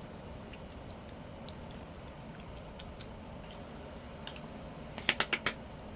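Eating sounds: quiet chewing with scattered small clicks, then a quick run of about five sharp clicks about five seconds in.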